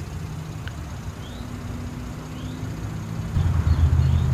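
A vehicle engine running, a steady low hum that grows louder about three seconds in, with a few faint short chirps like small birds.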